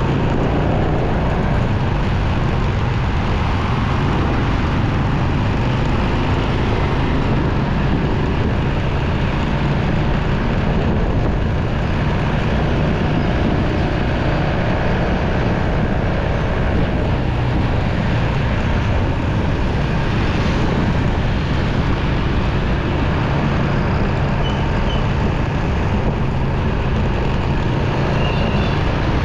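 Steady riding noise from a motorcycle moving through city traffic: wind rushing over the microphone, with the low drone of the engine and surrounding vehicles beneath it.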